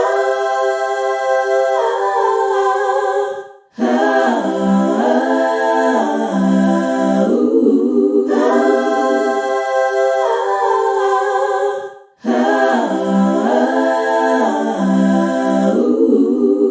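Background music: voices singing wordless chords in harmony, a cappella, in long phrases with brief pauses about four and twelve seconds in.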